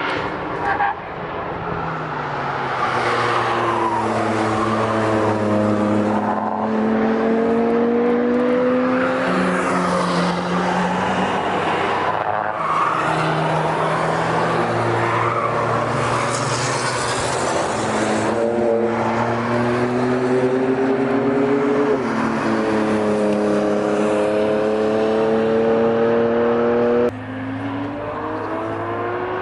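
A series of high-performance vehicles accelerating hard one after another, each engine note climbing slowly and dropping at gear changes, with abrupt jumps between passes.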